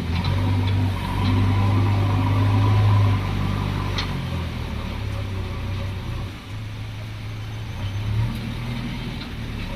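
Heavy diesel engine of earthmoving machinery running, louder for the first three seconds or so, then easing back to a steadier, lower run. A short sharp click is heard about four seconds in.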